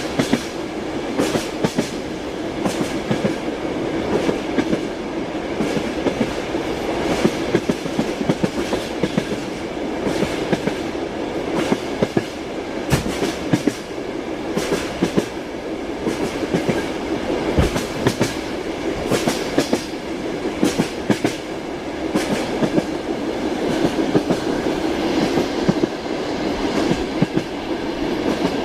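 Train wheels clacking over rail joints, heard from inside a passenger compartment over the steady rumble of the moving carriage. The clacks come unevenly, several in quick succession and then a gap.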